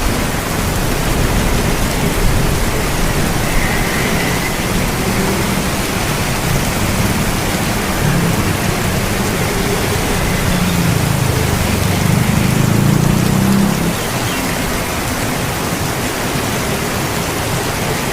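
Steady heavy rain, a dense even hiss of falling water. A low rumble of thunder swells after the middle and breaks off about three quarters of the way through.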